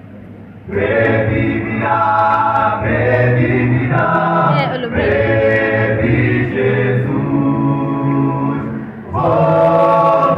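Vocal quartet singing in harmony, holding chords that change every second or so. The singing starts after a short pause and gets louder about nine seconds in.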